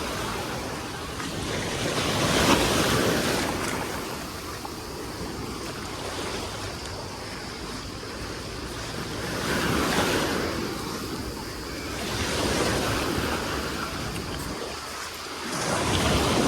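Small Aegean Sea waves breaking and washing up the beach, swelling and fading four times, with a low wind rumble on the microphone.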